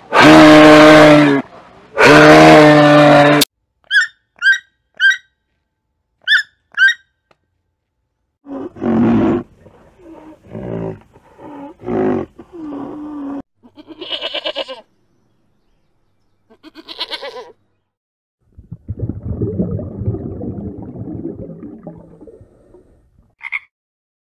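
A run of different animal calls, one after another. It opens with a cow mooing twice, loud and deep, then a few short high chirps. A string of shorter pitched calls follows, and near the end a long, low, rough roar.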